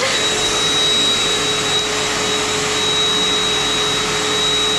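Vacuum cleaner running steadily: an even rushing noise with a constant high whine.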